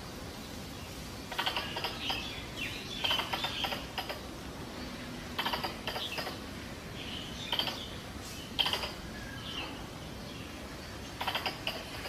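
Wild squirrel chattering calls, used as a mating-season lure: about six bursts of fast clicking chatter mixed with short high chirps, each lasting under a second, coming every one to three seconds.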